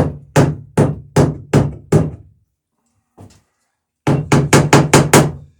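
Hammer blows riveting a wooden dory's planking, each nail peened over a burr against a bucking iron: steady strikes about two and a half a second, a pause with one light tap, then a quick run of about eight faster blows. Each blow rings with a low hum.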